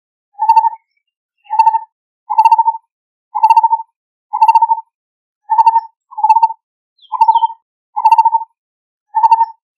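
Lineated barbet calling: a steady series of short, burry notes, about one a second.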